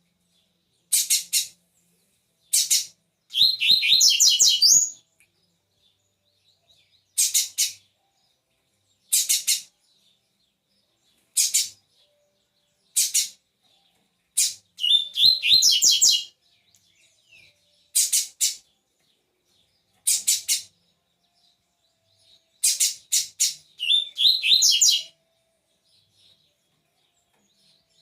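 A double-collared seedeater (coleiro) singing: short, high, quick song phrases repeated every second or two, with three longer, fuller phrases about three seconds in, around the middle, and near the end.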